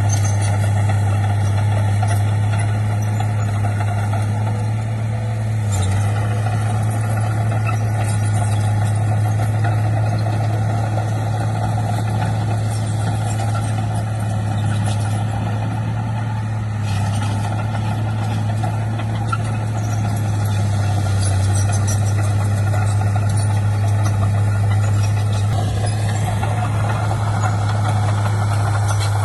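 Diesel engine of heavy earthmoving equipment running steadily at constant speed, a strong low hum with no break.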